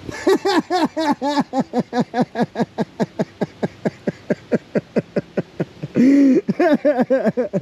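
A high-pitched voice chattering in quick repeated syllables, about five a second, each rising and falling in pitch, with one longer, louder note about six seconds in.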